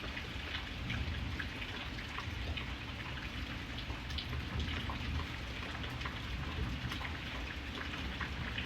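Steady rain, with many individual drops ticking on a hard surface over a constant low rumble.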